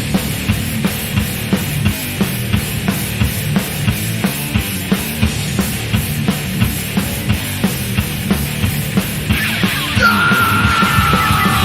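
Instrumental passage of thrash metal: distorted guitars over a steady, driving drum beat. About ten seconds in, a high guitar note enters and slides downward in pitch.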